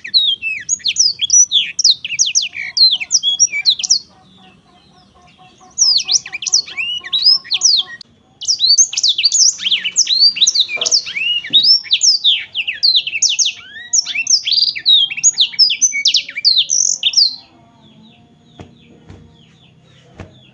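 Black-throated canary singing a fast, loud twittering song of sharp high notes, in bursts broken by short pauses about four and eight seconds in, then only faint notes for the last few seconds.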